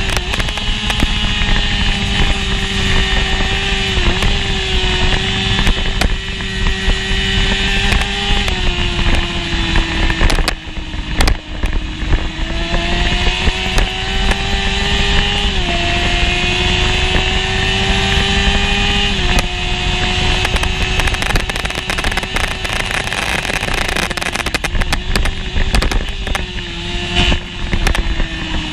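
Racing motorcycle's inline-four engine, a 1988 Honda CBR600F1, heard onboard at speed: the revs climb and then drop sharply at each upshift, several times over. The revs fall away briefly about ten seconds in before climbing again, with wind noise over the microphone throughout.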